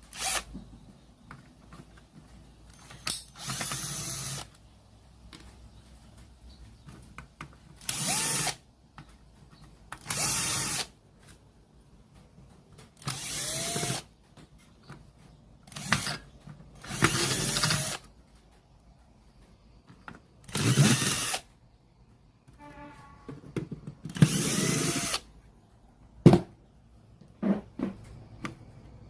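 Small electric screwdriver or drill run in about eight short spells of a second or so, with pauses between. Its motor whine bends in pitch during each spell. A few sharp clicks come near the end.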